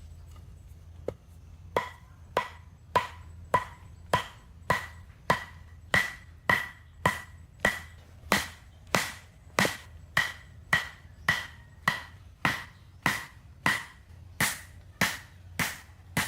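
A hand tool striking wood in steady, even blows, nearly two a second, each with a short ringing note. The blows start faintly and are loud from about two seconds in.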